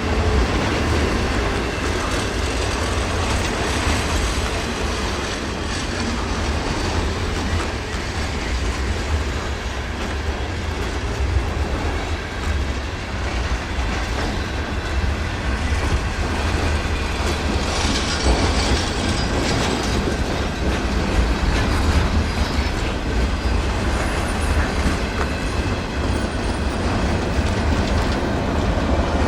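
A train's cars passing at speed, with steel wheels clacking over the rail joints in a steady, continuous rush.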